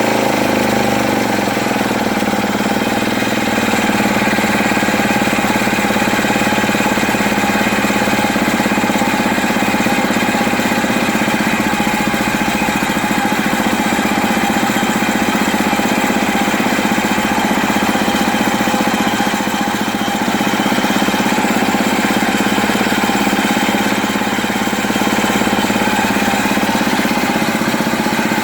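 1960s Mid-Jet outboard motor with a Tecumseh-built powerhead, running steadily at an even speed.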